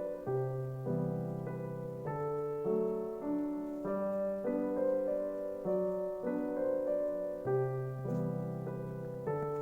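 Background piano music, a gentle melody of evenly paced notes over a repeating low bass.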